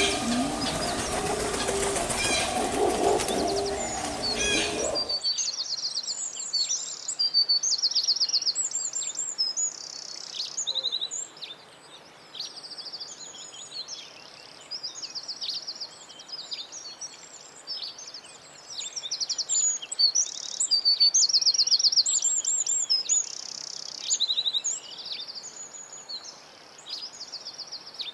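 Small songbirds chirping and singing, with high trills and fast runs of repeated notes from several birds overlapping. Over the first five seconds there is a loud rushing noise with low wavering calls, and it cuts off abruptly.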